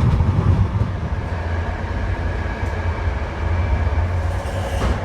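Passenger train running along the line: a steady low rumble with an even wash of track and carriage noise.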